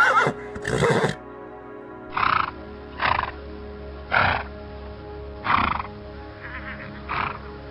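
A horse's whinny ends and a second short call follows, then five short, harsh animal calls about a second or more apart, over steady background music.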